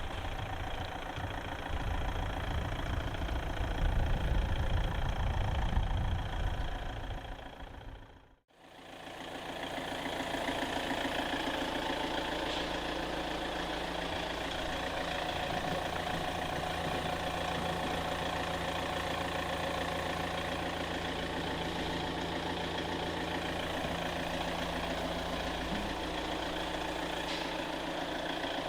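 Volkswagen diesel engine of a Jungheinrich DFG 425s forklift running. It has a heavy low rumble that swells for a few seconds, then cuts off abruptly about eight seconds in. After that it resumes, running steadily.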